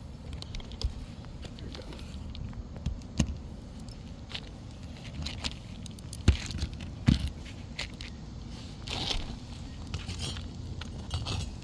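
Scattered clicks, scrapes and rustles from handling and working on an asphalt shingle roof, with two sharper knocks about six and seven seconds in.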